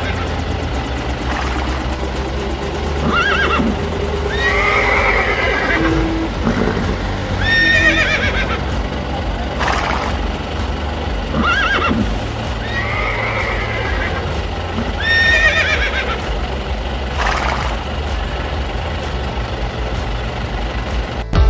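A horse neighing over and over, one call every two to three seconds, over a steady low hum.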